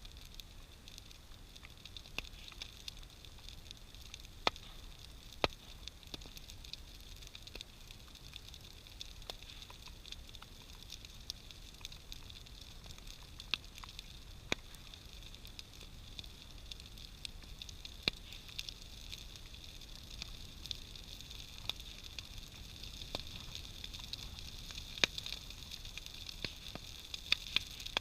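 Big wood-pile bonfire burning: a steady hiss with scattered sharp pops and cracks, the popping growing busier and a little louder toward the end.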